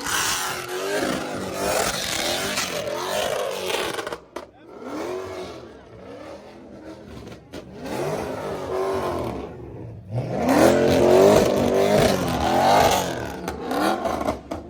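A car engine revving hard and falling back over and over, its pitch sweeping up and down, over a noisy hiss. It dips briefly about four seconds in and is loudest a little past the middle.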